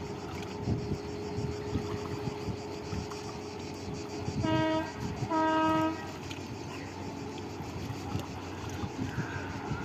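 Two horn blasts, the second slightly longer, about half a second apart near the middle. Under them is a steady motor hum with wind noise.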